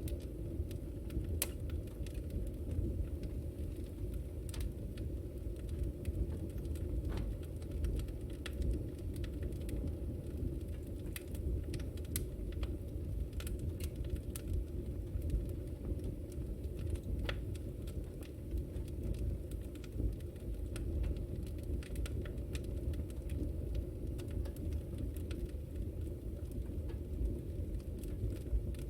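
Wood fire burning in a fireplace: a steady low rumble of the flames with irregular sharp crackles and pops, several every few seconds.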